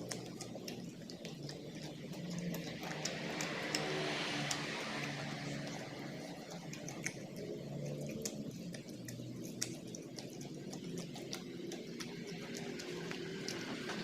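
A person chewing and eating, with many small sharp mouth clicks and smacks.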